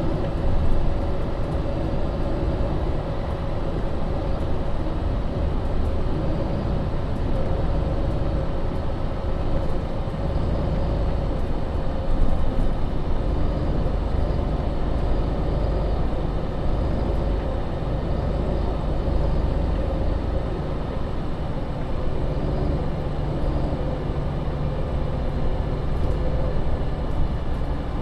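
Engine and drivetrain of a 2015 MAN Lion's City (NL 283) Euro 6 city bus running steadily, heard from inside the bus, with no marked revving or gear change.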